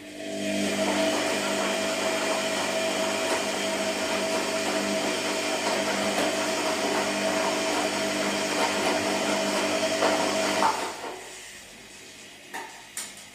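An electric motor runs steadily with a constant whine, then stops about ten and a half seconds in. Two or three short clicks follow near the end.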